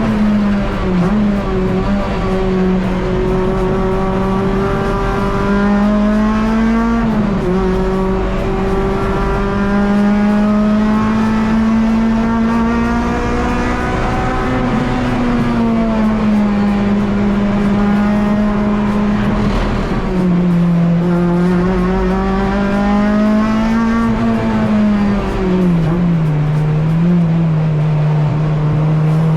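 Honda K24 inline-four engine in a Civic EG race car running hard at high revs, its pitch sagging and climbing again several times.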